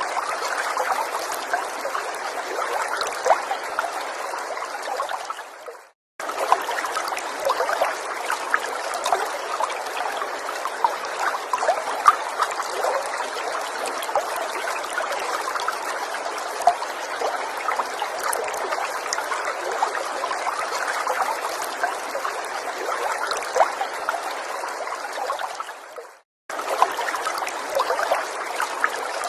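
A small forest stream trickling and splashing steadily over stones. Twice, about six seconds in and again near the end, it fades out to silence and cuts straight back in.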